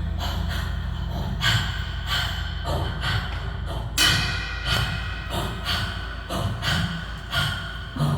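Live band in a quiet, sparse instrumental passage: scattered, irregular struck percussion and plucked notes over a held low bass note.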